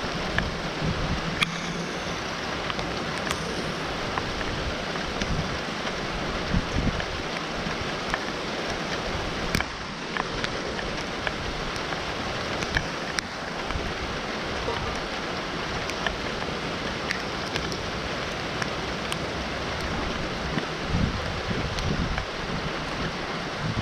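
Steady rain falling, with single drops tapping sharply close to the microphone every so often.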